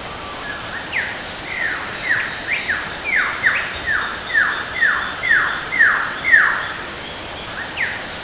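A bird calling a long series of about a dozen whistled notes, each sliding downward, coming faster and louder before breaking off, with two more near the end.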